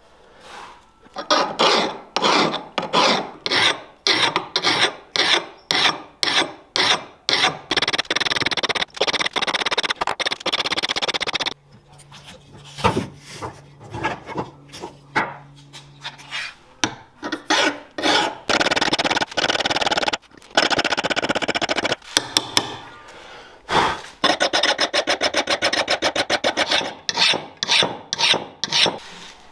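Hand file or rasp worked in repeated rasping strokes, about two a second at first, then quieter for a few seconds in the middle, ending in a run of quicker, shorter strokes.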